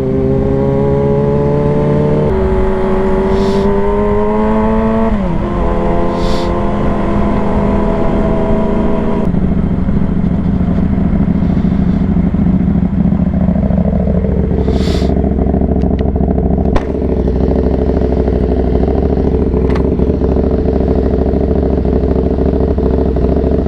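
Yamaha R6 inline-four engine pulling up through the gears. Its pitch climbs in each gear and drops at an upshift about two seconds in and again about five seconds in, then it settles into a steady cruise. Wind rushes throughout.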